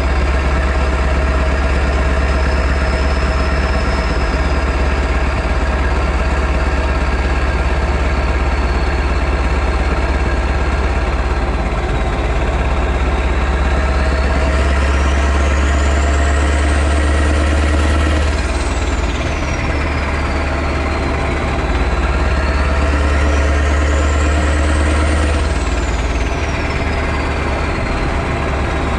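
Straight-piped V8 diesel truck engine, the Mack E9 V8, running at idle and revved up twice. Each rev climbs slowly over a few seconds, then drops sharply back to idle.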